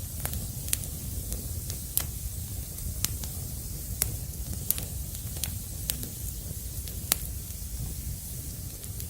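Burning firewood crackling: a steady low rumble and hiss with sharp, irregular pops, about one or two a second.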